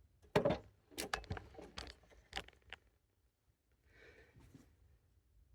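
A quick string of sharp clicks and knocks from hand tools and metal engine parts being handled, over about the first three seconds, then a faint scuffle.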